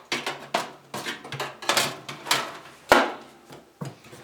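Metal baking sheet and small countertop oven being handled: a string of clatters and sharp knocks, about eight over four seconds, the loudest about three seconds in.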